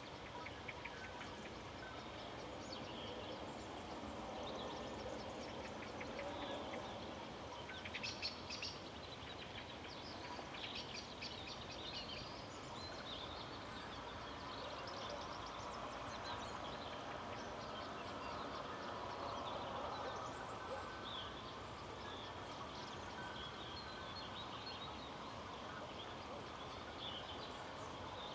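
Rural outdoor ambience: a steady rush of wind with small birds chirping and calling on and off, including a few quick rattling trills about a third of the way through.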